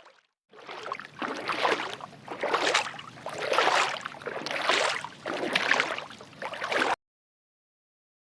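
Water swishing and splashing in regular surges, about one a second, cutting off abruptly near the end.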